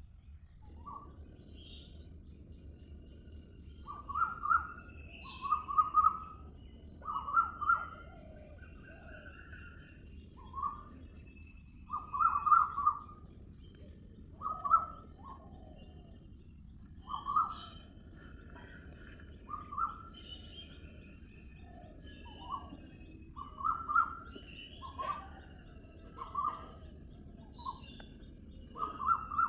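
Birds calling in short repeated notes every second or two, over a steady high insect-like drone.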